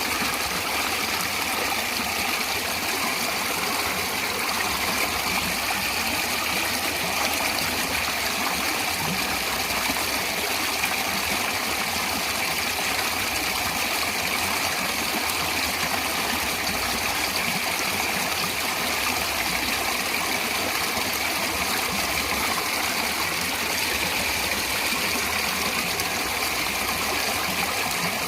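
Natural water flowing steadily, an even, unbroken noise.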